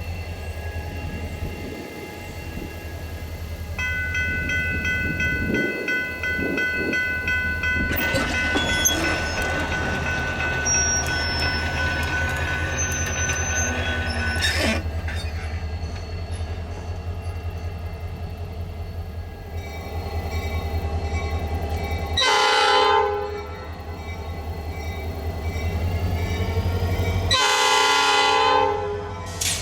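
A diesel freight train runs past with a steady low engine and wheel rumble while a bell rings for several seconds in the first half. Later the locomotive's air horn sounds twice, a short blast and then a longer one near the end, as for a grade crossing.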